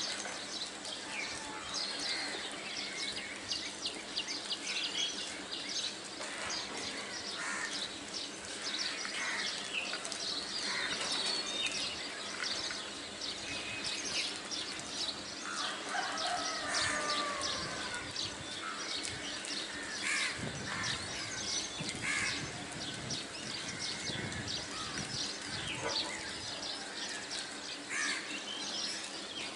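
Birds chirping in a dense, irregular chorus of short high calls, with a lower, harsher call about halfway through.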